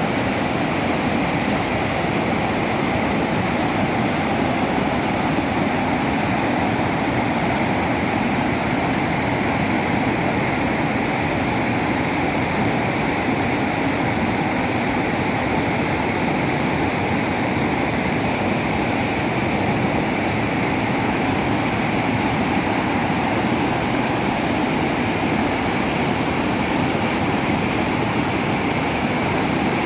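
Chamang Waterfall: a steady, even rush of falling water.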